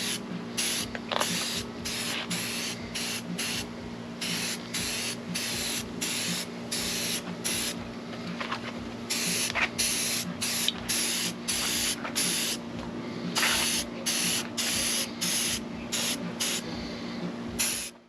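Spray paint hissing in short, repeated bursts, about one or two a second, as masked aluminium wheels are sprayed.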